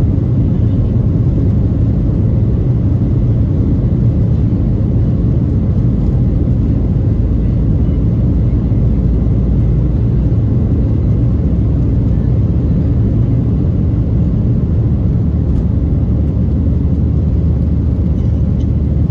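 Steady low rumble of cabin noise inside a Boeing 737-800 airliner: its engines and the airflow around the fuselage, unchanging throughout.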